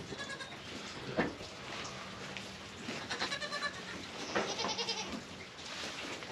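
Goats bleating in the barn: three wavering bleats, one just after the start, one about three seconds in and one about four and a half seconds in.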